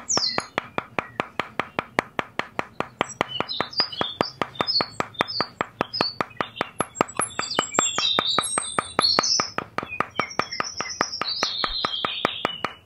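Small hammer tapping thin wooden stick posts down into sand: quick, even taps, about four a second. Birds chirp over the tapping from a few seconds in.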